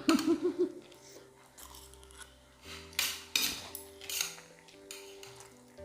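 Chopsticks clicking and scraping against a plate or bowl as food is picked up, a string of short sharp taps with the busiest ones about halfway through. Quiet background music plays under them.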